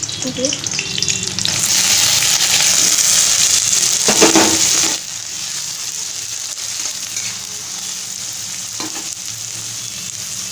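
Chopped vegetables sizzling in hot oil and ghee in a kadai, stirred with a metal spatula. The sizzle turns loud about a second and a half in and drops back to a lower, steady sizzle about halfway through.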